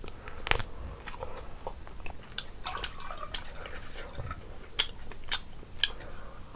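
A person chewing and biting food close to the microphone, with scattered sharp wet mouth clicks.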